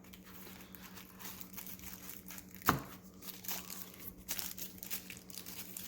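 Plastic packaging crinkling and rustling as the box contents are handled, in many small scattered crackles with one sharper click about two and a half seconds in.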